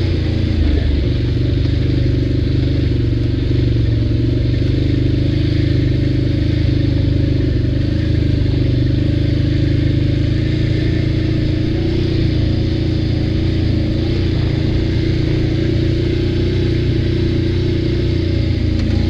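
ATV engine running at a fairly steady speed while riding.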